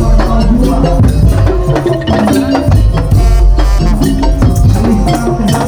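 Madurese tong-tong ensemble playing loudly: wooden slit drums, drums and rattles keeping a driving rhythm under a melodic line and a heavy bass beat.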